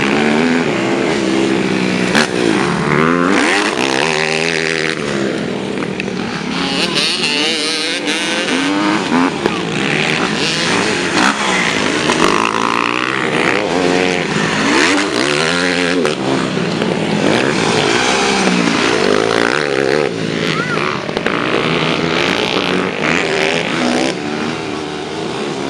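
Several motocross bikes' engines revving up and down over one another, the pitch of each climbing and dropping again and again.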